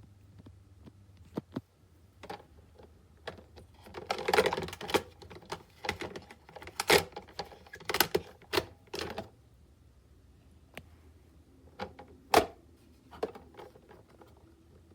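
Hinged plastic lid of a Krups Simply Brew drip coffee maker being lifted and let fall repeatedly, a run of irregular clicks and clatters with one sharp knock near the end. The lid will not stay up on its own.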